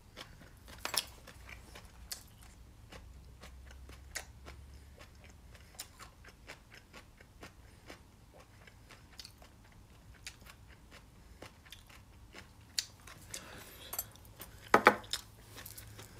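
Quiet chewing and mouth sounds from a person eating, with scattered light clicks and ticks throughout and a short louder sound near the end.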